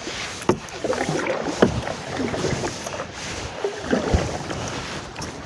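Canoe being paddled: water swirling and splashing around the paddle blade and hull, with a few sharp knocks.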